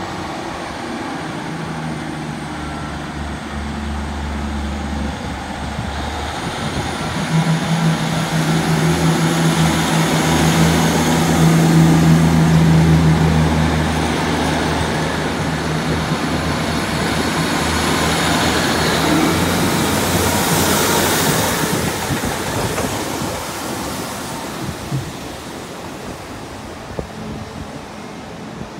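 Diesel train passing at the station, its engine note building to a peak about twelve seconds in and then fading away, with a thin high whine above it.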